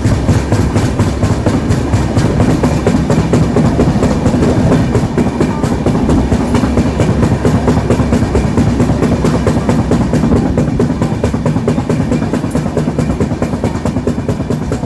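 Train passing at speed, its wheels clattering rapidly over rail joints with a continuous heavy rumble and a steady hum underneath.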